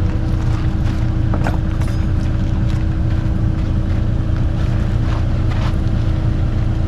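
Excavator's diesel engine running steadily, a low, even rumble with a steady hum, with a few faint clicks over it.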